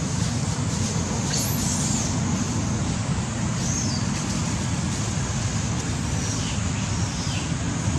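Steady low rumbling background noise with a few faint, short high-pitched squeaks.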